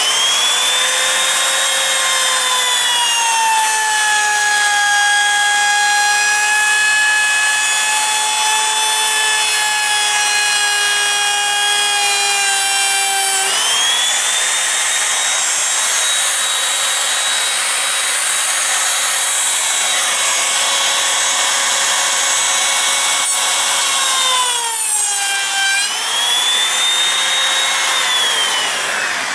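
Electric router running with a 15-degree laminate-trimming bit, cutting plastic. Its high whine sags in pitch while the bit is loaded in the cut and rises again as it eases off, and it winds down near the end.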